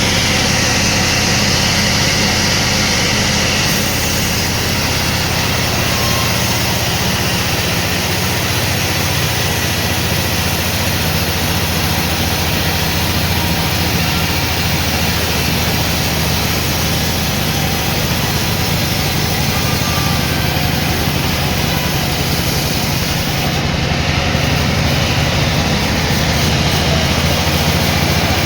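Sawmill machinery running steadily: an engine-like hum with a continuous hiss above it, at an even level throughout.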